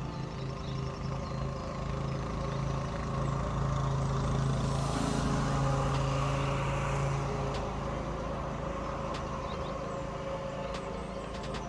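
Toro TimeMaster 30 walk-behind mower engine running steadily under cutting load, growing louder in the middle and easing off again.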